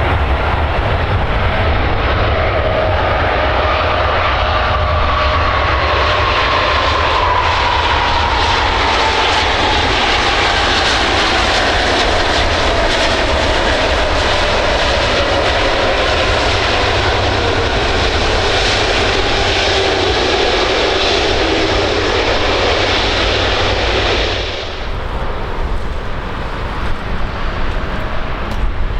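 Airbus Beluga XL's twin Rolls-Royce Trent 700 turbofans running loud as the aircraft passes, with a whine that falls slowly in pitch. About three-quarters of the way through, the high part of the noise drops away suddenly, leaving a low rumble.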